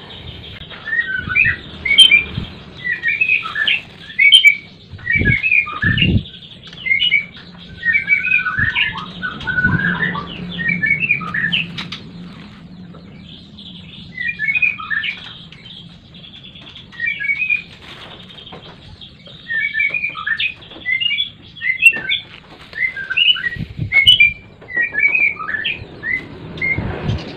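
A songbird singing in short, rapid chirping phrases, repeated with brief pauses, with a few low thumps about five to six seconds in.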